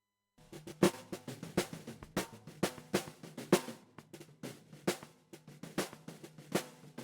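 Recorded drum kit track playing back, snare, kick and cymbals in a steady groove, starting about half a second in after silence.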